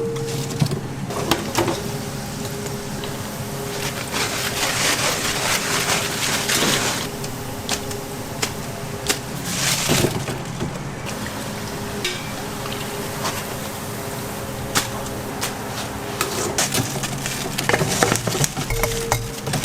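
Shop kitchen clatter: scattered knocks and clinks of utensils and trays over a steady hum, with stretches of rustling hiss.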